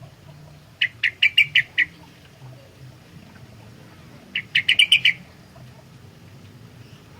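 Sooty-headed bulbul (kutilang) singing two short phrases of quick repeated notes, the first about a second in and the second about four seconds in, over a faint low hum.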